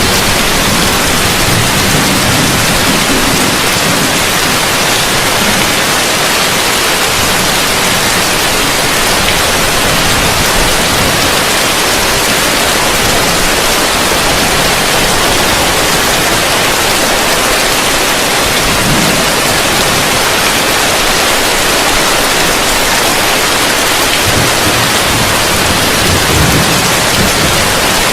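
Heavy rain falling steadily on a roof, a dense, even hiss with a faint low rumble now and then.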